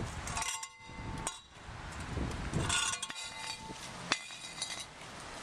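A few metallic clinks and knocks with brief ringing. The sharpest knock comes about four seconds in.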